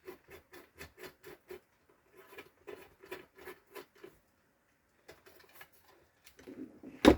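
Light metal clicks as the bolt of a hole punch and flanging tool is screwed down by hand, coming about five a second at first and then more sparsely. A single sharp knock near the end.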